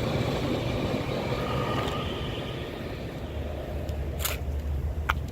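A vehicle engine running with a steady low rumble that grows a little stronger about three seconds in, with two short clicks near the end.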